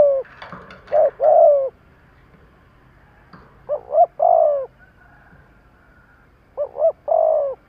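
Spotted dove (cu gáy) cooing: three phrases about three seconds apart, each two quick short coos followed by a longer coo that drops in pitch at its end. This is the urgent 'thúc' calling used to provoke a decoy dove.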